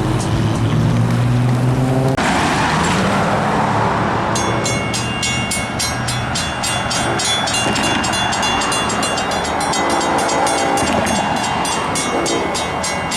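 Long Island Rail Road train passing a grade crossing. A steady low engine hum comes first, then the train's rolling noise swells in about two seconds in. From about four seconds in there is a fast, even metallic ringing of several strikes a second.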